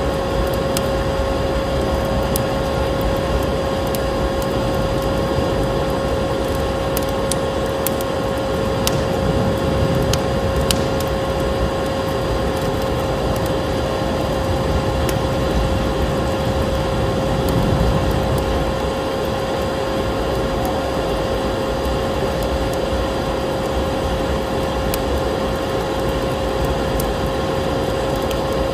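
Layered ambience: a vacuum cleaner runs steadily with a constant hum under a crackling wood fire, whose scattered sharp pops and snaps stand out over a steady rushing noise of storm wind.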